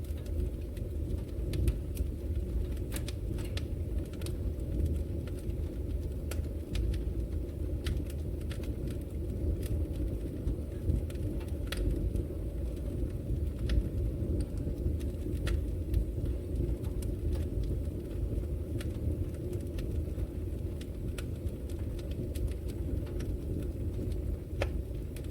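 Wood fire burning in a fireplace: a steady low roar of the flames with irregular sharp crackles and pops of the burning logs.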